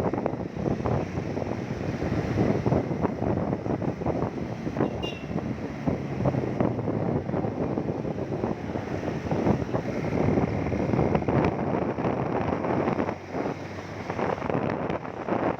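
Wind buffeting the microphone on a moving motorcycle, over the motorcycle's engine and road noise.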